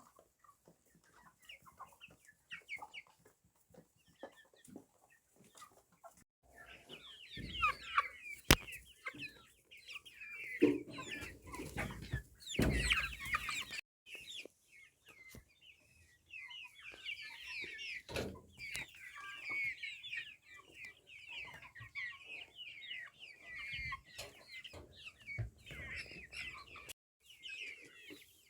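A flock of local chickens clucking, with many short calls overlapping, sparse at first and getting busier about seven seconds in. A few louder thumps come in the middle.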